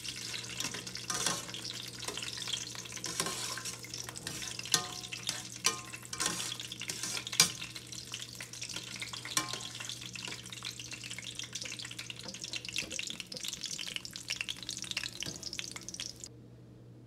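Cashew nuts frying in ghee and oil in a stainless steel pan: a steady sizzle, with a metal spoon stirring and clinking against the pan every second or two. The sizzle cuts off about a second before the end.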